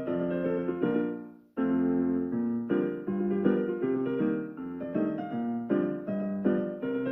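Piano music: a melody over chords, with notes changing every few tenths of a second. It dies away about a second and a half in, then starts again.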